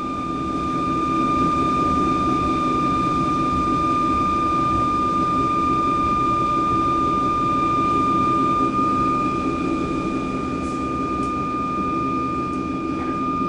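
Electric suburban train running, heard from inside the carriage: a steady rumble with a steady high-pitched whine over it.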